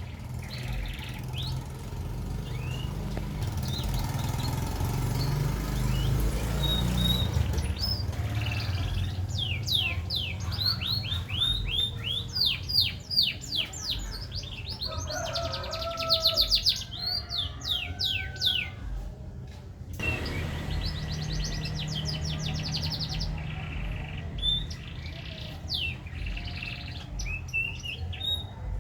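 Green canary singing: long phrases of fast trills made of rapidly repeated whistled notes, over a steady low hum.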